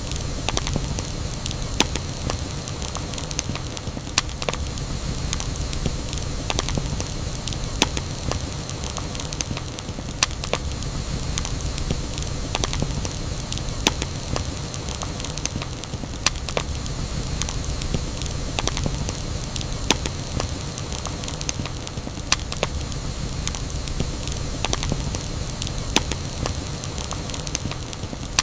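Campfire burning with a steady low rumble and hiss, dotted with frequent sharp, irregular crackles and pops from the wood.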